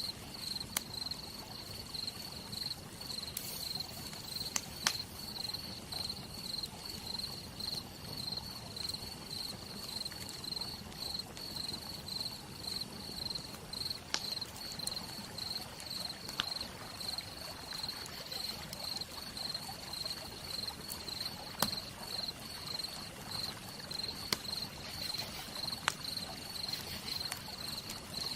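Campfire crackling, with a dozen or so sharp pops scattered through, over a steady hiss of rain. A cricket trills steadily throughout in a high, pulsing note.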